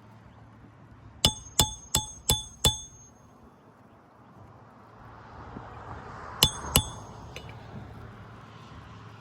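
A hammer driving a roofing nail through an asphalt shingle. There are five quick ringing strikes, then a pause and two more strikes a few seconds later.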